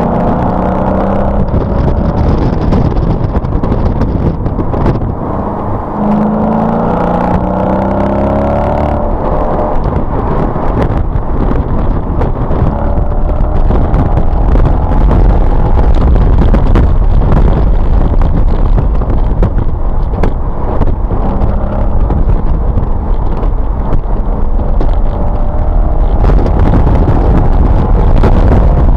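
Mercedes-Benz SLK engine under hard acceleration on a race track, its note rising in pitch several times in the first ten seconds with a brief drop in between. After that a heavy, steady rumble of wind and road noise takes over.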